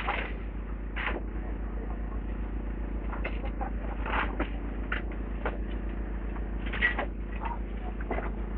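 Demolition work on a building: a steady low rumble with frequent irregular knocks, clanks and crunches of breaking rubble, sharpest at the start and again about seven seconds in.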